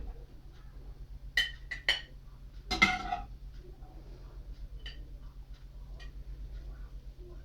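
A few light clinks and knocks, the loudest cluster about three seconds in, with fainter ticks after, over a steady low hum.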